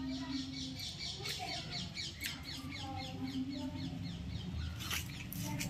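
Birds chirping: a rapid run of short, high, falling chirps, several a second, with a few sharp clicks near the end.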